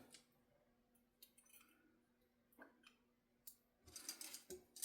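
Near silence broken by a few faint clicks of needle-nose pliers working small wiring parts, more of them near the end.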